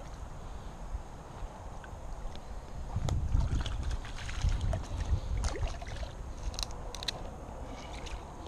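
Low rumbling of wind and handling noise on a chest-mounted action camera's microphone, growing louder about three seconds in, with scattered clicks and light knocks.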